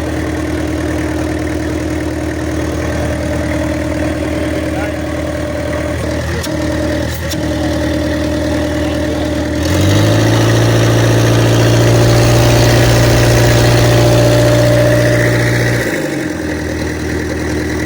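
Toyota 5L four-cylinder diesel engine idling steadily, then revved up about ten seconds in and held at a higher speed for about six seconds before dropping back to idle.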